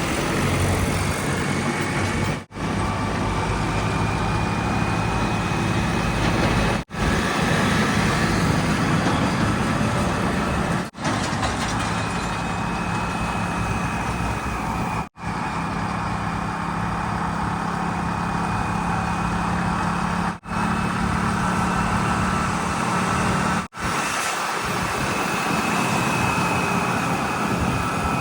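Heavy diesel engines of a backhoe loader and tipper trucks running steadily. The sound drops out for an instant six times, every three to five seconds.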